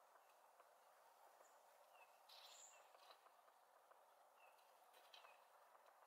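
Faint, scattered short chirps and calls of small songbirds, with a slightly louder flurry about two and a half seconds in and a few light clicks.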